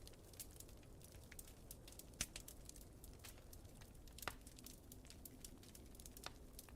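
Wood fire crackling in a fireplace: a steady run of small, quiet snaps, with two sharper pops about two and four seconds in, over a low steady rumble.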